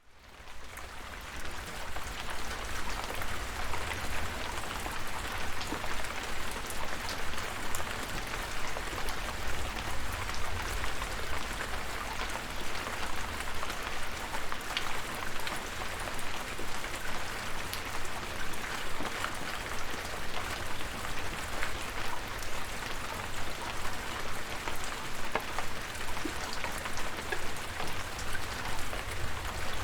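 Steady rainfall with many distinct drop ticks over an even hiss, and a low rumble underneath. It fades in from silence at the start, then holds steady.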